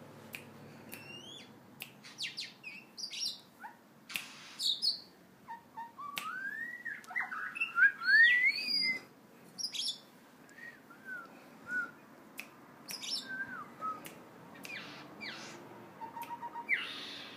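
A shama calling: sharp clicks and short chirps, with a run of rising whistles in the middle.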